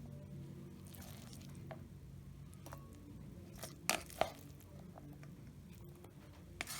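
A spoon working soft cooked rice, with faint squishing, and two sharp clinks against the dish about four seconds in and another near the end. A low steady hum runs underneath.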